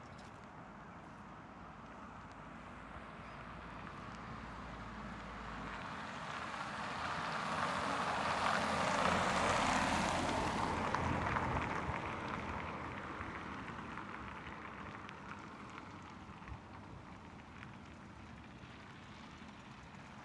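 A vehicle passing by: a broad rushing noise that builds for several seconds, peaks about halfway through, then fades away.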